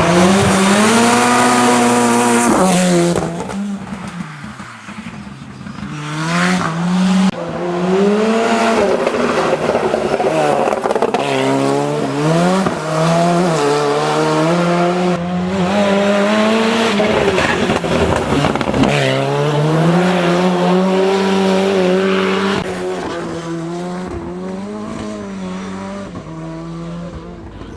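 Ford Sierra Cosworth Group A rally car's turbocharged four-cylinder engine driven hard, revs climbing and dropping again and again through gear changes. It eases off around four seconds in, then comes back to full throttle, and fades near the end.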